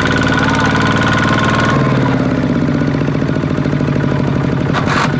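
Mini tractor engine running with a fast, clattering beat. About a second and a half in, its note changes and the upper hiss drops off. A short hiss comes near the end.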